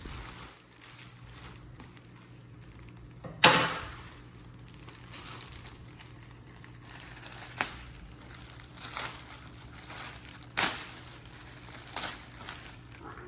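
Plastic packaging wrap crinkling and rustling as it is cut and pulled open, with a few sharp crackles, the loudest about three and a half seconds in.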